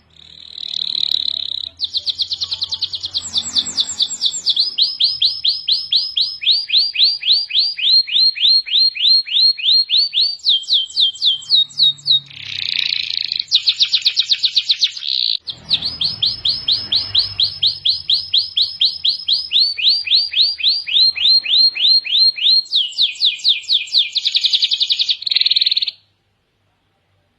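Domestic canary singing a long, unbroken song of rapid repeated trills, each run of one note giving way to a new one every second or two. The song stops abruptly near the end.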